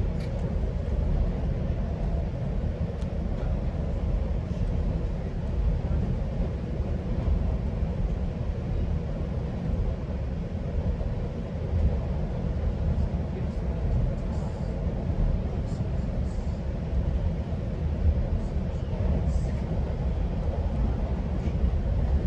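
Steady low rumble of a GO Transit commuter train running along the track, heard from inside the coach, with a faint steady hum. A few faint high clicks come in the second half.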